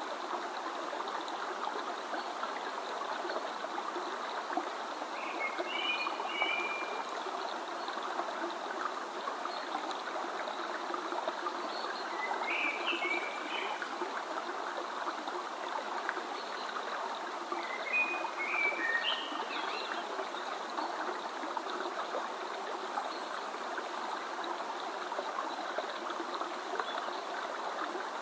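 Steady rush of a flowing stream, with a songbird singing three short chirpy phrases about six seconds apart over it.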